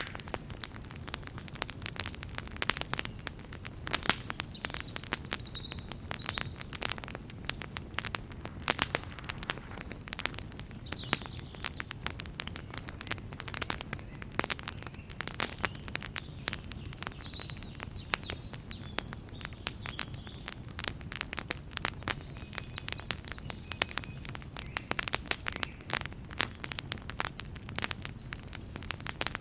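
Wood campfire burning, with dense, irregular crackling and sharp pops over a low, steady rumble of the flames.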